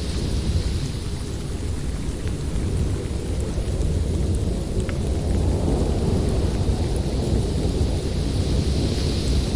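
Blizzard wind blowing through a forest: a deep, continuous rumble with a higher hiss that fades after the start and swells again near the end.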